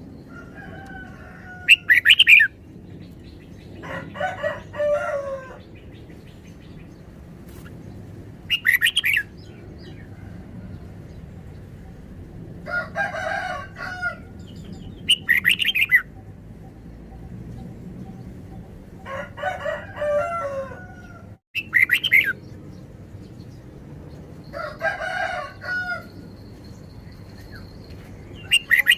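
Red-whiskered bulbul singing short, bright, chirpy phrases, one every six to seven seconds, alternating with longer, lower-pitched calls.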